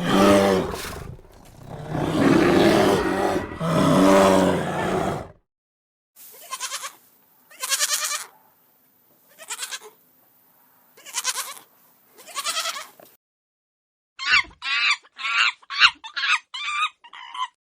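Animal calls: loud pitched calls for about five seconds, then six short separate calls about a second and a half apart, then a quick run of about eight higher, chirping calls near the end.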